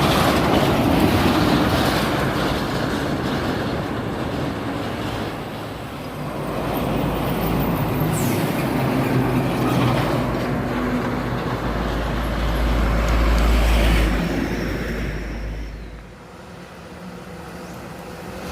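Heavy trucks passing close by on a highway: a low diesel engine rumble and tyre noise. The rumble is deepest and loudest about two thirds of the way in, then falls away sharply.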